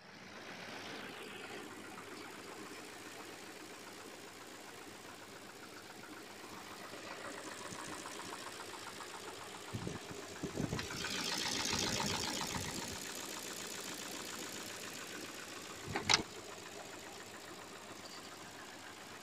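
Audi AUW engine running with a knock. It gets louder for a few seconds about ten seconds in, and there is one sharp click about sixteen seconds in.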